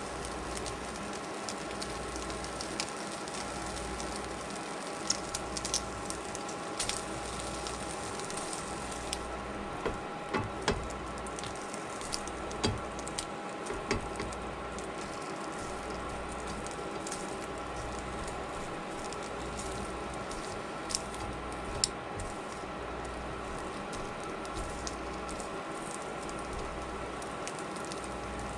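Food frying in a pan: a steady sizzle with scattered sharp pops and crackles of hot oil, over a steady electrical hum.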